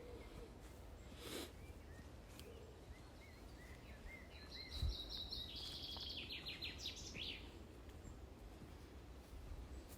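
Faint birdsong: a few short chirps, then about halfway through a songbird sings one fast trill of repeated notes, about two and a half seconds long, stepping down in pitch. A low steady rumble runs underneath.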